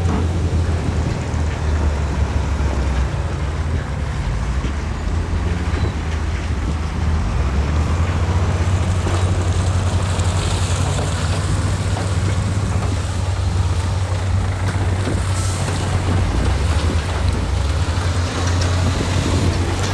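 Heavy diesel engine of earthmoving machinery running steadily with a deep low drone, with faint scattered knocks and rattles over it.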